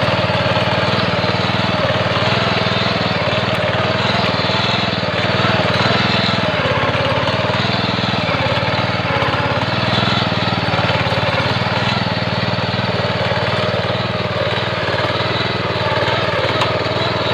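Mini tractor engine running steadily as it pulls a plow through the soil, a continuous drone with a slightly wavering pitch.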